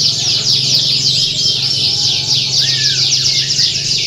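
Many domestic canaries singing at once in a dense, unbroken chorus of rapid trills and chirps, over a low steady hum.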